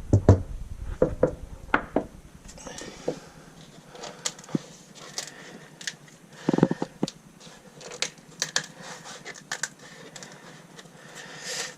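Irregular knocks, taps and clicks of hands-on work inside a car, with heavier thumps at the start and again about halfway through.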